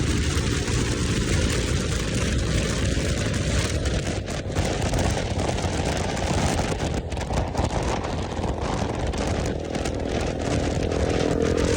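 Motorcycle engine running under way, mixed with wind rush on the microphone; the engine note rises a little near the end.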